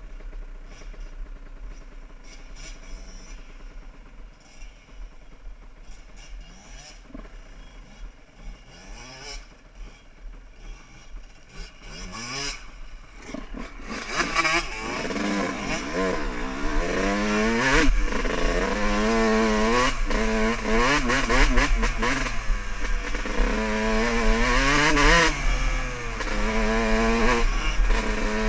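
Dirt bike engine being ridden, its pitch climbing and dropping over and over as the throttle is worked and gears change. It is quieter at first and much louder from about halfway.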